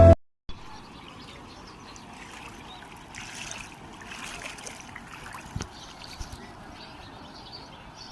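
Steady wash of flowing water, with faint bird calls over it; background music cuts off right at the start.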